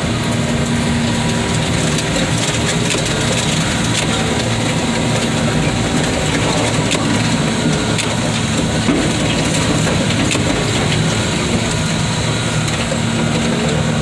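A heavy machine's engine runs steadily under continuous crunching and cracking as a scrap car body is crushed.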